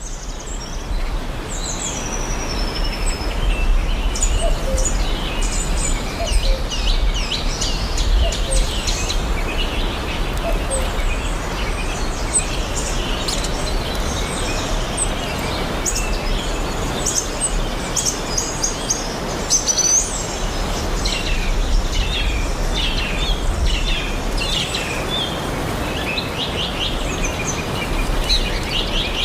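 Tropical forest ambience: many birds chirping and whistling in quick, overlapping calls throughout, over a steady low rumble.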